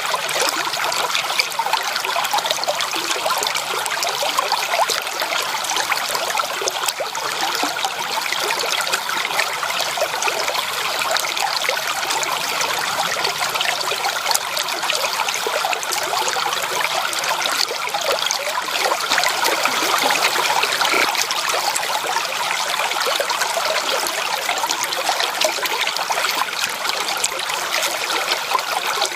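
Running stream water trickling and babbling steadily, without a deep rumble.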